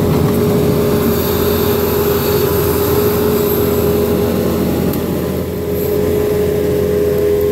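New Holland L230 skid steer's diesel engine running steadily, with a constant whine over the engine hum.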